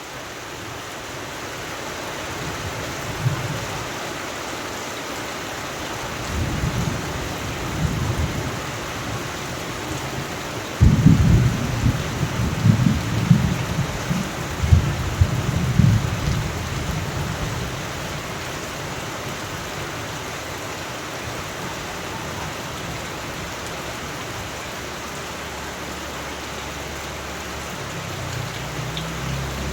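Steady rain with thunder. Low rumbles build after a few seconds, then a sudden loud crack about a third of the way in rolls on in several peaks for about five seconds before dying back under the rain.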